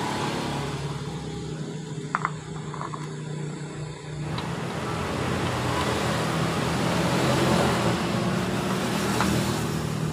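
Steady engine hum of a running motor vehicle, swelling after about four seconds, with a couple of light sharp clicks about two seconds in.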